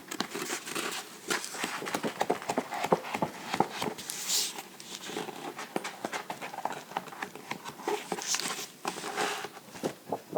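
Fingers tapping and scratching on books: rapid, irregular taps and scratches, with a brief papery swish about four seconds in and another a little past eight seconds.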